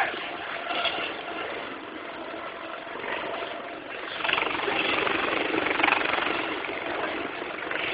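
Rescue helicopter's rotor and engine noise, growing louder about four seconds in.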